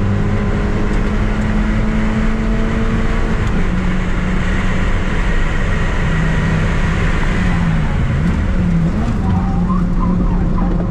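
Mazda MX-5's NB 1.8-litre VVT four-cylinder engine running hard on track, heard from inside the cabin under heavy wind and road noise. The engine note steps down in pitch partway through, then dips and climbs again near the end.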